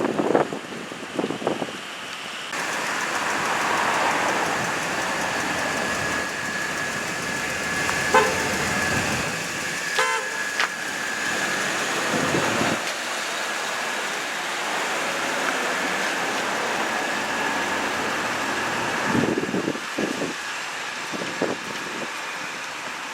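A steady horn-like tone from a fire chief's emergency vehicle, sounding for about sixteen seconds, with short pulsed sounds about eight and ten seconds in.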